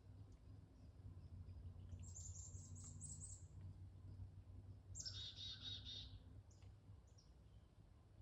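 Faint songbird calls in woodland: a quick series of high, thin notes about two seconds in, then a short trill of rapidly repeated notes about five seconds in, over a steady low hum.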